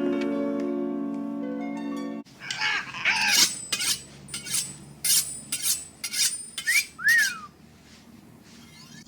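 Orchestral music with held notes stops about two seconds in. A parrot then squawks harshly over and over, with two short whistles that rise and fall near the middle, and a quieter stretch near the end.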